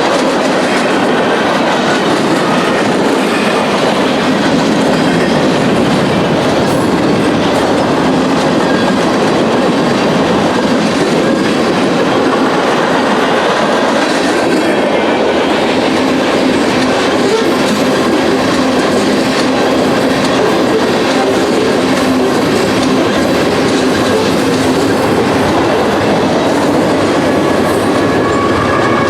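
Freight train cars rolling past close by: a steady, loud rumble and rattle of steel wheels on rail, with clickety-clack from the rail joints.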